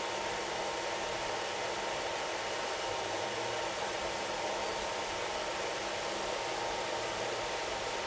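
Steady rushing noise with a faint constant hum inside an air-conditioned train coach on the move: the coach's air-conditioning and the train's running noise, unchanging throughout.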